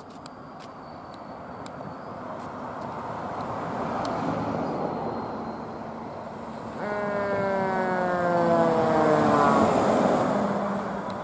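Fire engine driving past on an emergency response, its engine and road noise building over the first few seconds. About seven seconds in an air horn sounds for about three seconds, its pitch falling steadily as the truck goes by.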